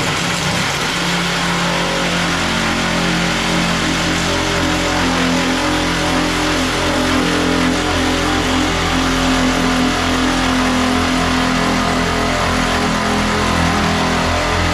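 Power saw running steadily while cutting: a loud, continuous motor sound with a dense hiss.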